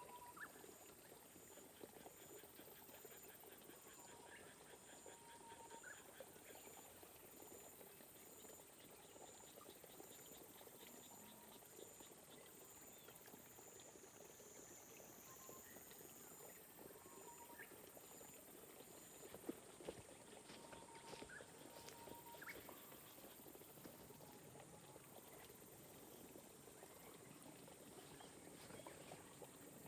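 Faint, steady patter of light rain over rice terraces. Scattered short bird chirps sit on top, along with a quick ticking trill and a high note that repeats a little faster than once a second until about two-thirds of the way through.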